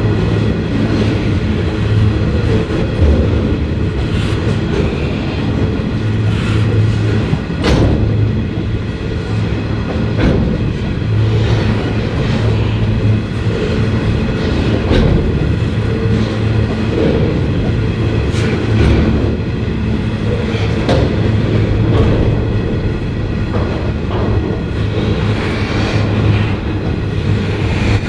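Freight train of covered hopper wagons rolling past: a steady rumble of steel wheels on the rails, with occasional clacks as the wheels cross rail joints.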